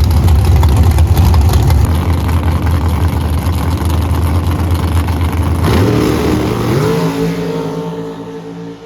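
Drag-race car engine running hard at full throttle with a heavy, dense rumble. About six seconds in the rumble drops away, a higher engine tone rises and holds, and the sound fades as the engine comes off the throttle.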